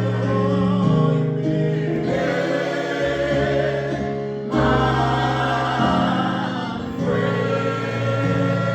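Choir singing a gospel song with accompaniment, held low notes changing every second or so beneath the voices.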